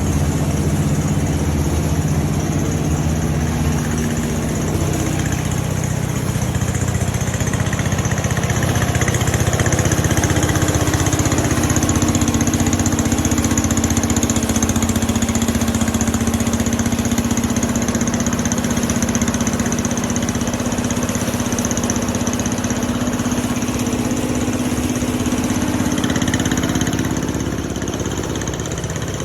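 Engine-driven rice mill running steadily with a continuous motor hum, its pitch settling after a shift in the first few seconds and the level dipping slightly near the end.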